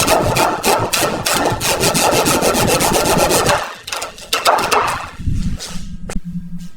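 Fast, rough scraping strokes on metal for about three and a half seconds. They break off, start again in a short burst about a second later, and give way to quieter, duller scraping and handling noise near the end.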